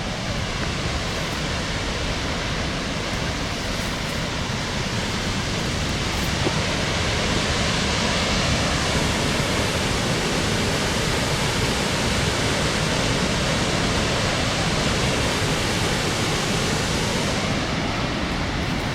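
Steady rushing of water from a nearby waterfall or river: a continuous even roar. It grows a little brighter in the middle and duller near the end.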